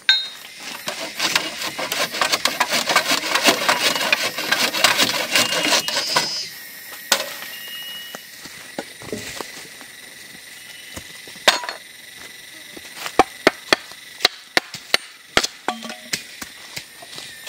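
Wood being handled: a dense run of crackling and tapping for about six seconds, then scattered sharp knocks of wood on wood.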